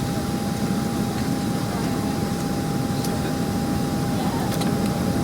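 Steady cabin noise inside a Boeing 767-300ER airliner: a constant hiss and rumble of the air supply with a thin, steady high whine running through it, and a few faint clicks around the middle.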